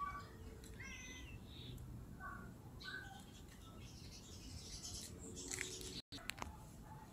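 Faint birds chirping in short curved calls over a low outdoor background hum.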